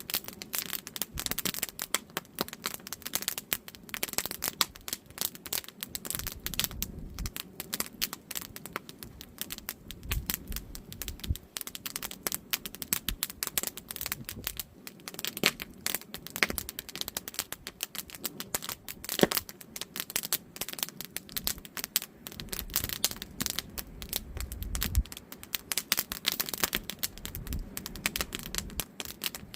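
Split firewood burning in a campfire, crackling with a constant stream of small irregular snaps and a few sharper pops, the loudest about nineteen seconds in.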